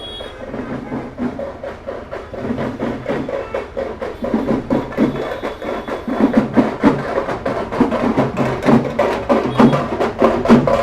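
Drums beaten in a rapid, steady rhythm, growing louder about six seconds in.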